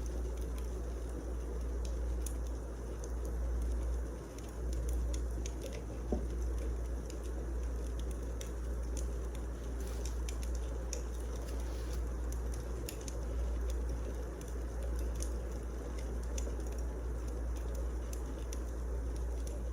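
Wood fire crackling: a steady low rumble with irregular sharp pops and snaps throughout.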